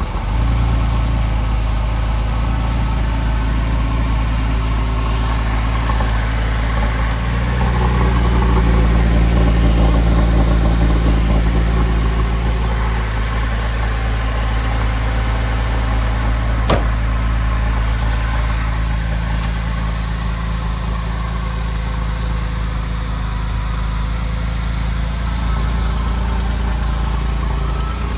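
2005 Porsche 911's flat-six engine idling steadily just after a cold start; the idle swells a little about seven seconds in, then eases back. A single sharp click sounds about two-thirds of the way through.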